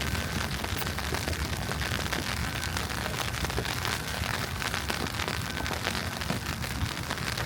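Wet snow falling on a city street: a steady hiss full of tiny irregular ticks over a low rumble.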